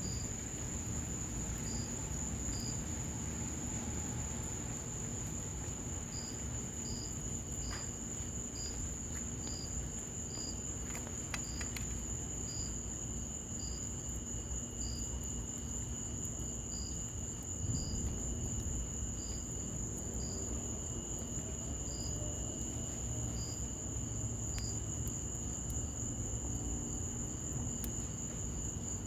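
Insects, crickets by the sound of it: one keeps up a high continuous trill while another chirps about once a second, and a third joins about six seconds in. Beneath them run a steady low rush of fire and rain and a few faint crackles.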